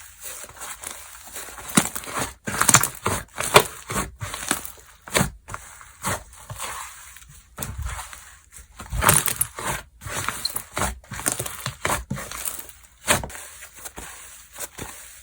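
Slime being squished and stretched by hand: irregular sticky crackles, clicks and pops, with louder clusters of popping a couple of seconds in and again around the middle.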